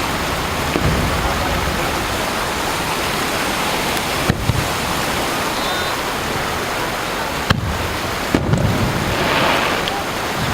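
Surf washing onto the beach as a steady, even rushing noise, with a few momentary dips.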